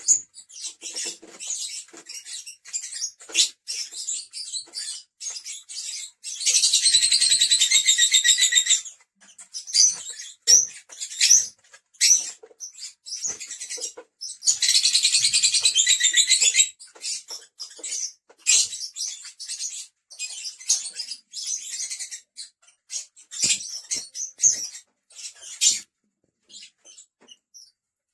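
Lovebirds chirping in short, high calls, with two long, loud stretches of rapid, continuous chattering, about a quarter of the way in and again a little past halfway.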